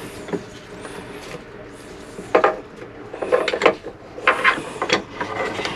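Clicks, knocks and rattles of hard parts being handled as the Raritan marine toilet is worked on, its joker valve just replaced with a Jabsco one. The sounds come in irregular clusters, starting a couple of seconds in.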